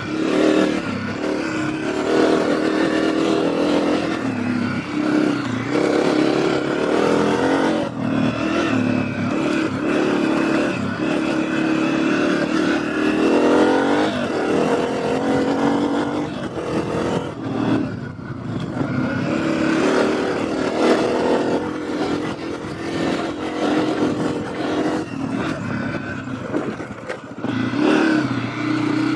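Honda CRF250F dirt bike's single-cylinder four-stroke engine revving up and falling off again and again as it is ridden off-road.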